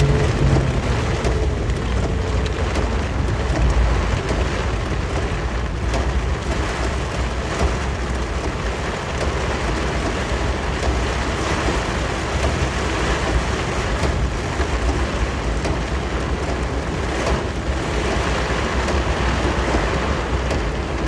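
Heavy rain and wet-road noise, steady, with the low rumble of a Suzuki Jimny SJ30's two-stroke engine running underneath as it drives.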